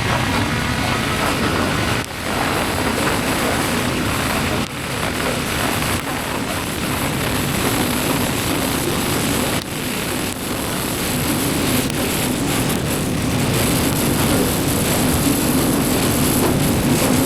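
Motorcycle riding along at speed: wind rushing over the microphone together with engine and road noise, steady apart from a few brief dips.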